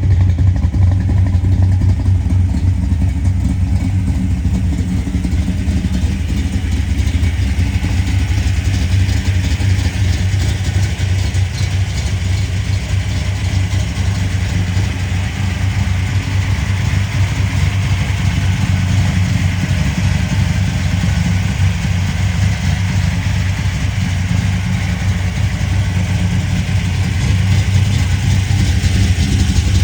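1970 Oldsmobile 442's V8 engine idling steadily with a deep, even exhaust note.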